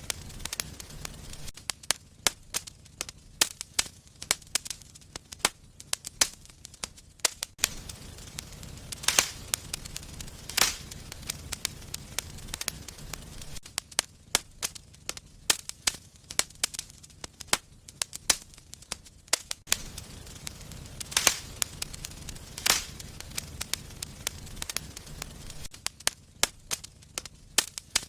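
Wood fire in a fireplace crackling, with constant irregular snaps and several louder pops, over a low rumble of the flames.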